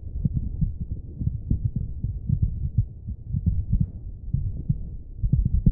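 Heartbeat sound effect: repeated low, muffled thumps over a deep throbbing hum, like a pulse heard through blood vessels.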